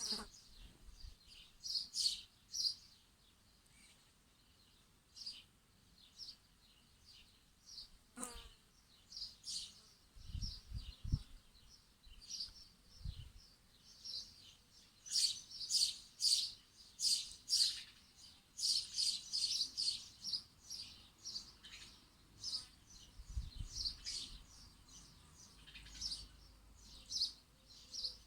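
Small birds chirping and tweeting in quick short notes, thickest and loudest about halfway through, with a few faint low thumps in between.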